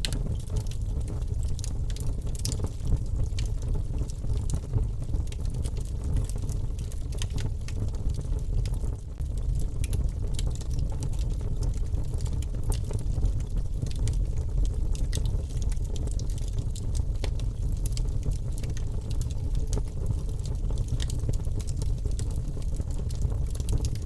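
Wood fire burning in a fireplace: a steady low rumble of flames with many small sharp crackles and pops scattered irregularly throughout.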